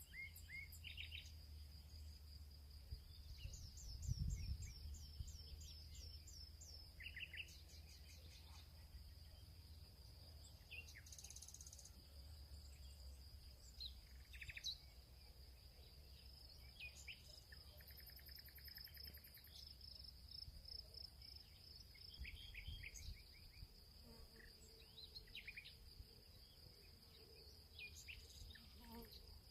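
Faint field ambience: a steady, high insect trill, like crickets, with several birds calling in short, repeated chirps and quick phrases. A low rumble runs underneath and swells briefly about four seconds in.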